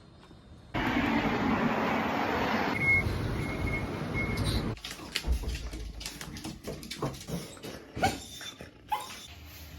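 A steady rushing noise for about four seconds, with three short high beeps partway through, then scattered clicks and two short rising whines from a border collie near the end.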